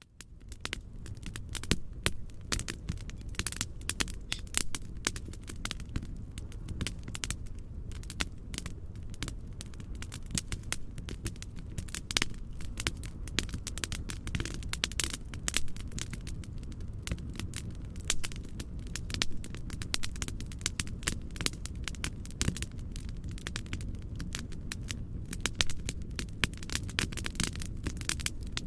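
Wood fire crackling in a fireplace: many sharp pops and snaps over a steady low rumble, fading in at the start.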